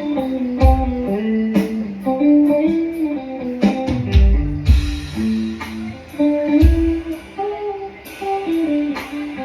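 Live band playing an instrumental passage: a guitar picking a moving melody over drums, with steady cymbal ticks and a few kick-drum thumps.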